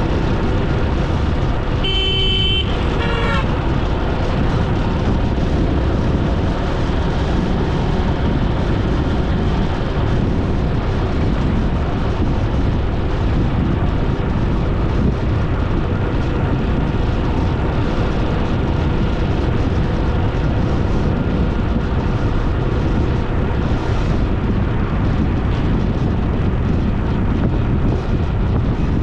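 Steady road and wind noise of a motorbike ride on the road, with a vehicle horn honking once for about a second, about two seconds in.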